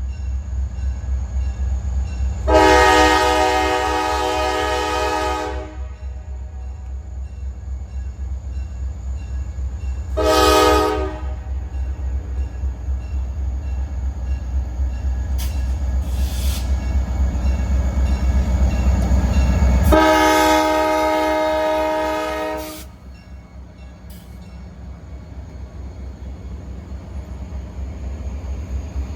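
Freight train's locomotive air horn sounding a long blast, a short blast, then another long blast over the steady rumble of the passing train. The rumble builds up to the last blast, then falls away sharply as the blast ends.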